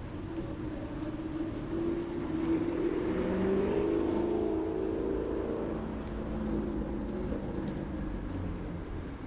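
A motor vehicle's engine passing by. It grows louder to a peak about four seconds in, then fades away.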